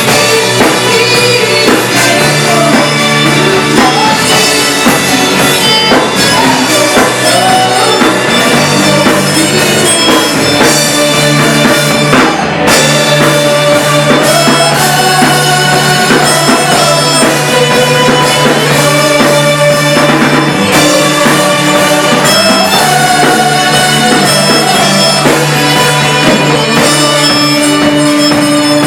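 Band playing loudly and steadily, with drum kit, guitar, bass and held melody notes, and no lyrics picked up.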